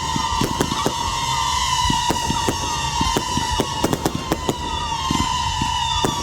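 Fireworks going off in rapid succession: many sharp bangs and crackles over a steady whistling tone, with short falling whistles again and again.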